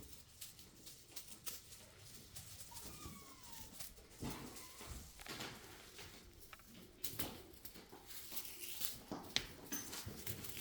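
Siamese kittens moving about: scattered light taps and rustles, with a faint short falling mew about three seconds in.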